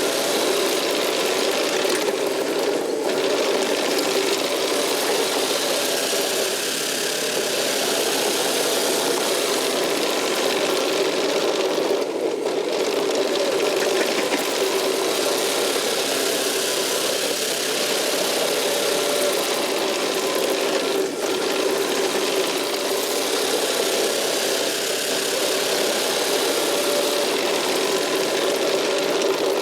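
Kubota KX080 excavator's diesel engine running steadily under work, a continuous drone with a little knock in it.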